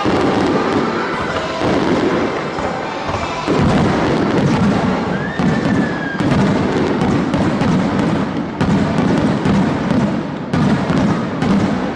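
Aerial fireworks bursting in a rapid series of booms, a new burst every second or two, with crackling in between and a brief whistle near the middle. Music plays underneath.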